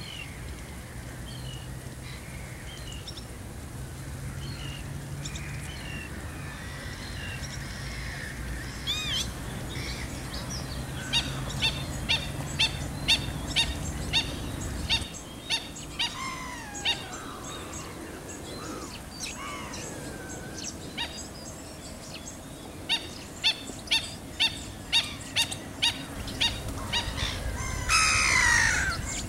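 Black-winged stilts and other wetland birds calling: two runs of short, sharp calls repeated about twice a second, drawn-out descending calls between them, and a loud descending call near the end. A low steady hum sits under the first half.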